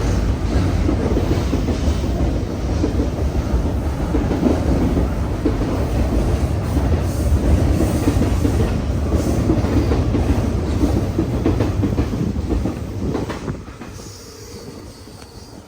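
A train's cars rolling past on the rails at close range, with a steady loud rumble that falls away about thirteen seconds in.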